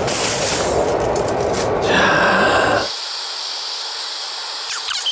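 Food sizzling and hissing on a hot charcoal grill. About three seconds in, the sound drops suddenly to a quieter, higher hiss.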